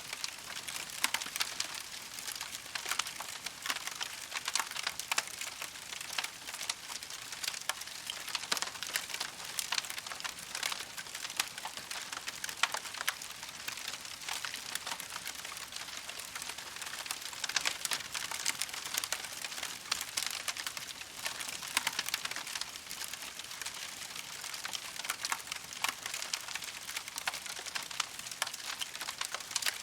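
Campfire burning with a dense, irregular crackle of small pops and snaps over a soft hiss.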